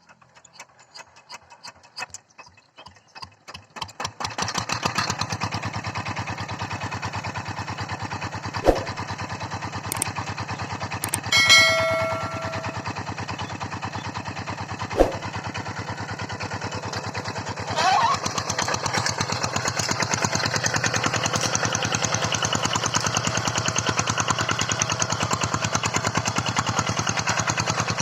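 Tractor engine starting: slow separate beats quicken over about four seconds until it catches, then it runs with a steady, even beat. There are a couple of sharp clicks and a short pitched tone about midway, and the engine gets louder with about ten seconds to go.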